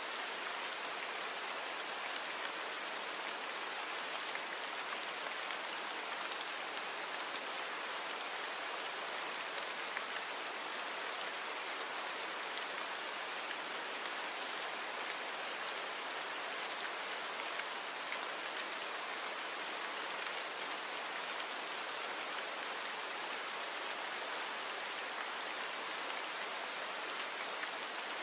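Steady rain falling: an even hiss with a fine patter of drops, light in the bass and unchanging throughout.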